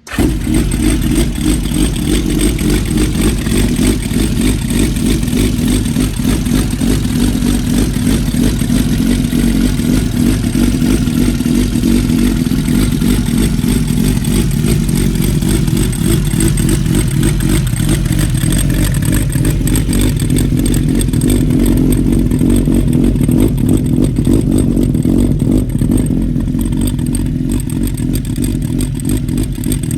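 Honda CBX550F inline-four motorcycle engine, enlarged to 740 cc, running steadily through a one-off titanium exhaust.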